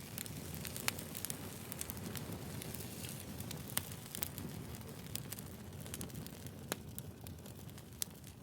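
Firewood burning: a steady low rumble of flames with irregular sharp crackles and pops from the logs.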